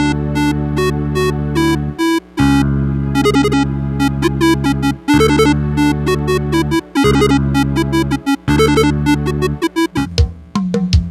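Electronic keyboard with a synthesizer sound playing a melody over sustained chords. The chords break off briefly between phrases, and near the end only a few short, separate notes are played.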